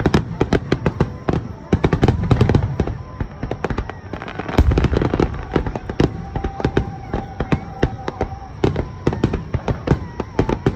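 A fireworks display: many shells bursting and crackling in rapid succession, with a heavier deep boom about halfway through.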